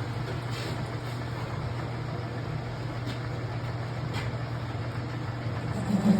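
Steady mechanical hum of running machinery, with a few faint light clicks over it.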